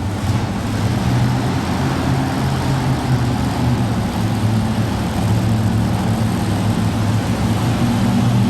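A big engine idling steadily with a low, even drone, typical of a modified pulling tractor or the sled's tow vehicle between runs.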